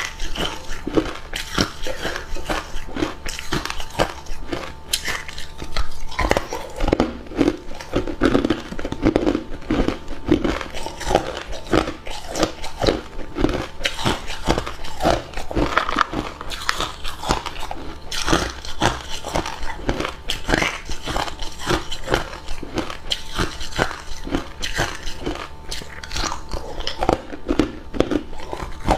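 A person biting and chewing hard cube ice, with dense, irregular crunching and cracking close to the microphone.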